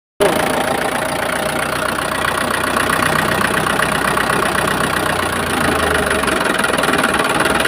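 An old engine idling steadily, a dense rapid chugging.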